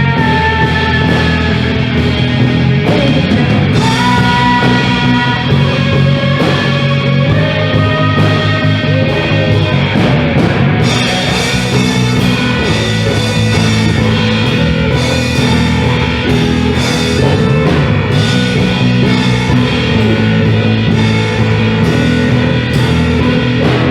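Rock band playing with drum kit and guitars, loud and continuous.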